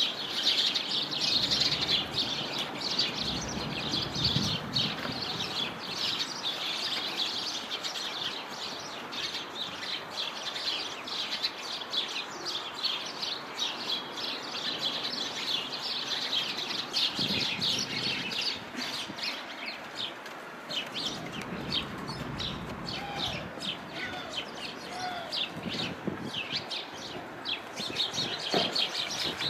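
Many small birds chirping continuously in quick, high-pitched calls, with a low rumble rising under them twice.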